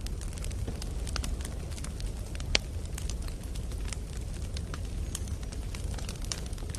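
Wood campfire burning: a steady low rush with frequent soft crackles and small pops of burning logs, and one louder pop about two and a half seconds in.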